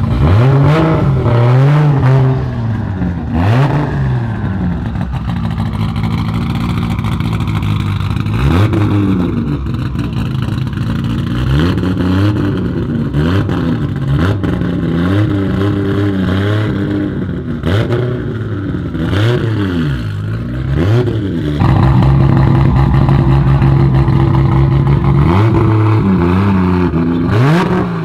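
Toyota Supra MK4's 2JZ straight-six being revved over and over, its pitch climbing and dropping, with a few sharp exhaust pops. Near the end it holds a steady high rev for about four seconds.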